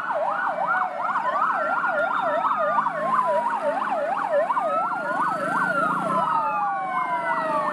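Emergency siren for a toy fire engine: a fast warbling yelp of about three cycles a second, with a slower rising and falling wail sounding over it.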